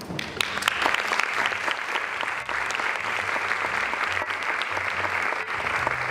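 Audience applauding: many people clapping in a dense, steady patter that starts just after the opening.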